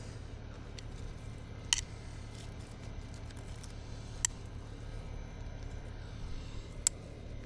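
Three sharp, brief clicks or snaps, evenly spaced about two and a half seconds apart, over a faint steady low hum.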